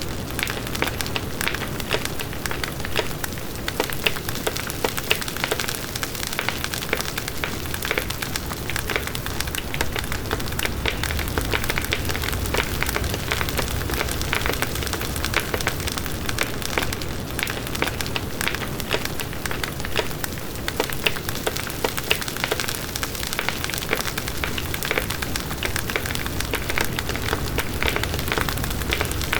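Campfire burning steadily, a continuous rush of flame dense with small crackles and pops of burning wood.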